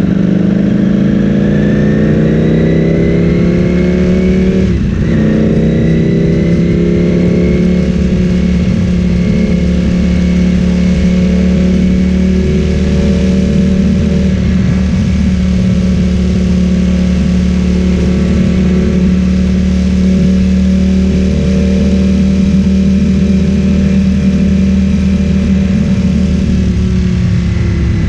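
Ducati Streetfighter V4 S's V4 engine through an Akrapovic full-system exhaust while riding. It accelerates for the first few seconds, drops in pitch briefly about five seconds in as it shifts up, then holds a steady cruise before easing off near the end.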